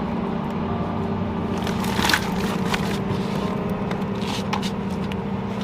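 Tow truck's engine running steadily, with a few short clunks and scrapes as the car is handled on the truck.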